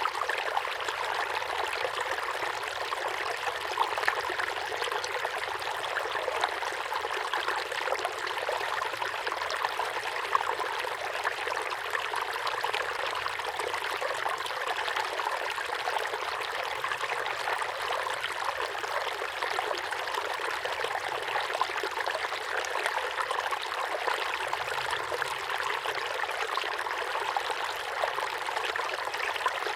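Small waterfall pouring steadily into a pond: a constant splashing rush of water with small splashes scattered through it.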